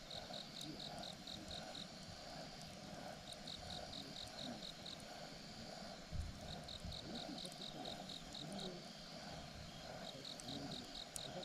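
An insect chirping in bursts of rapid high pulses, about six pulses a second, each burst lasting a second or two and recurring every few seconds, with faint crackling from a campfire and a soft low thump about six seconds in.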